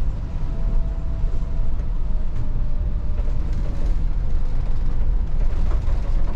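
Volvo 8900 city bus driving, heard from on board: a steady low diesel rumble with road noise and a faint whine that drops slightly in pitch, plus a few light rattles near the end.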